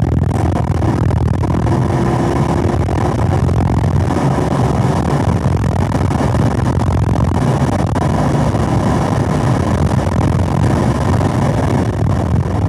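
Chevrolet Camaro SS 1LE's 6.2-litre V8 pulling hard under full throttle in fourth gear at high revs, heard from inside the car with heavy wind and road noise.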